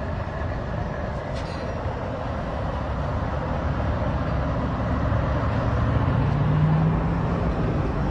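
A motor vehicle driving: steady engine and road noise with a strong low rumble, and a low engine tone that rises slightly in pitch about six seconds in.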